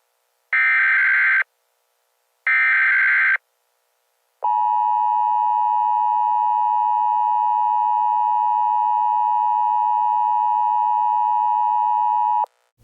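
Emergency Alert System SAME header: the last two of the three buzzy digital data bursts, each under a second long. About a second after them comes the steady two-tone EAS attention signal, which holds for about eight seconds and then cuts off, announcing a new alert message.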